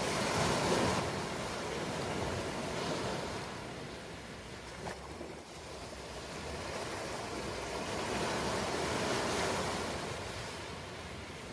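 Ocean waves breaking and washing on the shore. The surf swells loudest about a second in, ebbs, then builds to a second surge near the end before drawing back.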